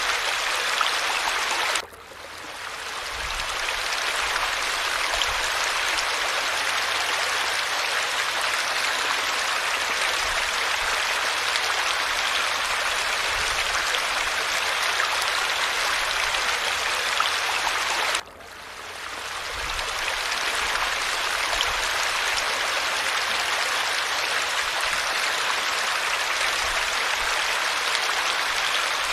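Falling water running in a steady rush. It cuts out abruptly twice, about two seconds in and again about eighteen seconds in, and each time fades back in over a couple of seconds.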